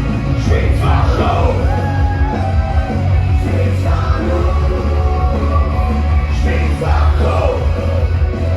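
Live rock music played loud, with a heavy bass beat and yelled vocals over it.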